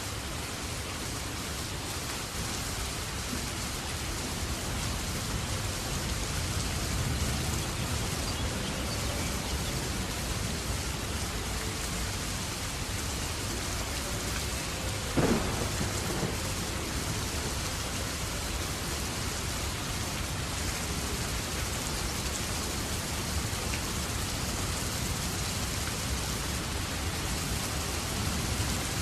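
Steady rain falling, with a low rumble underneath. One short, sharp louder sound about halfway through.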